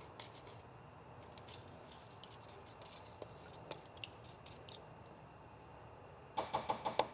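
Faint handling of a plastic paint-mixing cup and its strainer lid: scattered light ticks and scrapes, then a quick run of sharp clicks and taps near the end.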